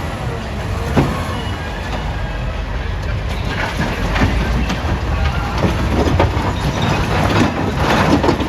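Caterpillar 966D wheel loader's diesel engine running under load while large rocks knock and scrape into a dump truck. There is a sharp knock about a second in, then a run of knocks and scrapes in the second half.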